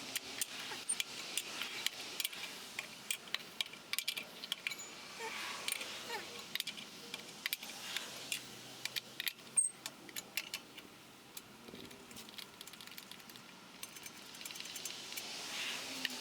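Irregular metallic clicks and clinks of hand tools and metal parts being handled and set down, many short sharp taps spread unevenly through the stretch.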